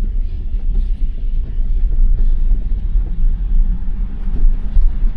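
Steady low rumble of tyres on a snow-covered road inside the cabin of a 2021 Tesla Model Y while driving. No engine sound is heard.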